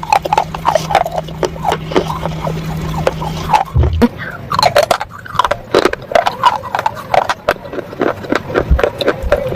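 Close-miked crunching and chewing of dry roasted clay and slate: rapid, irregular crisp cracks with wet mouth sounds between them. A steady low hum runs underneath and stops about three and a half seconds in.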